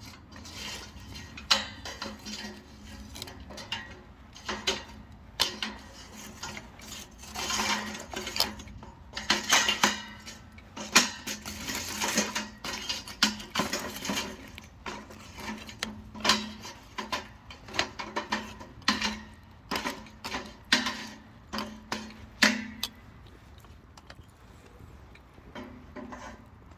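Thin mini pine sticks being handled and set into a small metal wood stove: irregular clicks and knocks of wood against wood and steel, with denser stretches of rustling and clatter in the middle.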